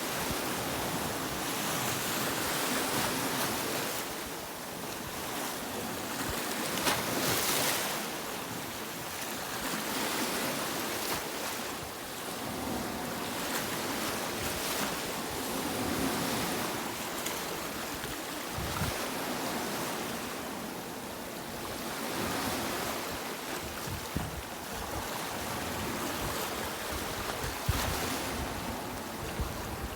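Sea waves breaking and washing on a beach, a steady surf hiss that swells and eases every few seconds.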